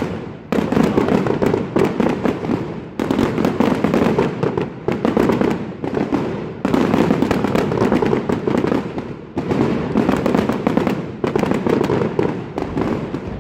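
Fireworks display going off close by: dense, rapid volleys of bangs and crackling in several runs, each breaking off suddenly before the next starts.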